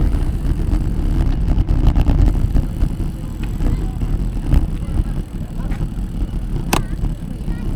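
Low, fluttering rumble of wind and road noise picked up while riding a bicycle, with one sharp click about seven seconds in.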